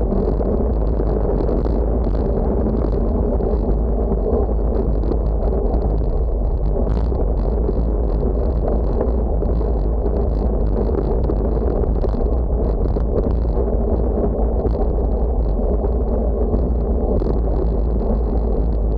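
Steady, heavy wind noise buffeting the microphone while riding, a constant rumble with road noise under it.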